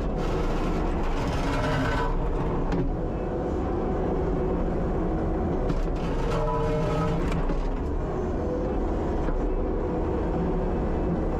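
Kubota 75-2 skid steer's diesel engine running steadily under load while working at a slab of frozen sidewalk. A higher whine rises over the engine twice, about a second in and again around six seconds, with a few short knocks.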